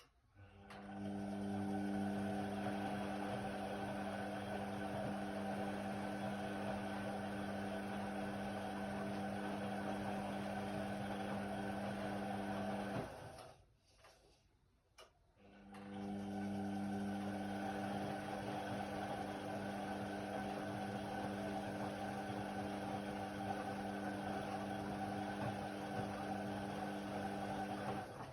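Indesit WIDL 106 washer-dryer's drum motor running with a steady hum, stopping for a couple of seconds about halfway through, then starting up again. This is the drum tumbling one way, pausing and turning back, as it does during a wash or dry cycle.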